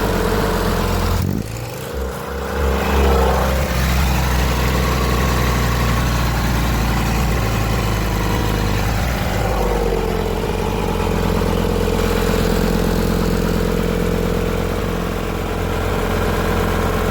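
A motor running steadily, with a brief dip a little over a second in and shifts in pitch around three seconds and again near ten seconds.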